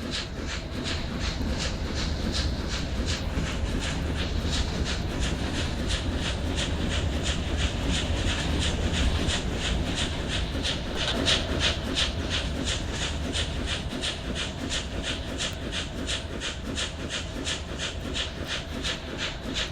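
Passenger train running at speed, with its wheels clicking over the rail joints in a steady rhythm of about three clicks a second over a low rumble.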